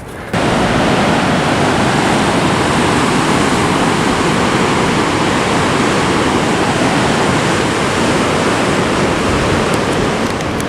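Ocean surf: a loud, steady rush of breaking waves that cuts in abruptly just after the start.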